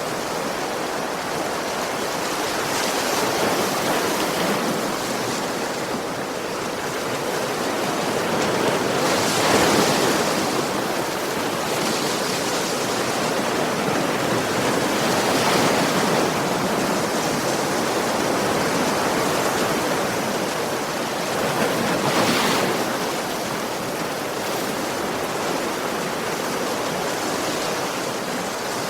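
Ocean surf: a steady rushing wash of waves, with a louder wave breaking about every six seconds.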